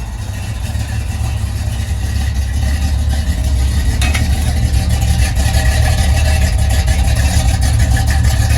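A vehicle engine running steadily, getting somewhat louder over the first few seconds, with a single sharp click about four seconds in.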